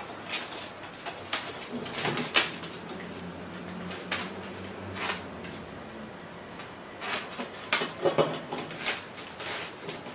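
A pet bird's short, sharp calls, coming in scattered bursts, busiest about 2 s in and again from about 7 s.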